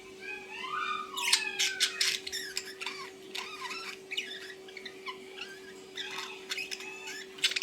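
A pet bird chattering and squawking in quick, scratchy calls that sweep up and down in pitch, over a steady low hum.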